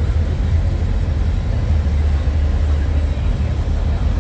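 Semi-truck diesel engines idling, a steady low rumble.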